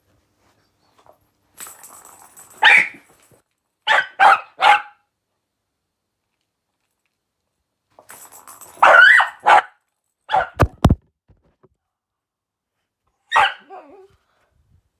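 Dog barking in short bursts: one bark, then three quick barks, two more later on, and a single bark near the end, with a few sharp knocks between them.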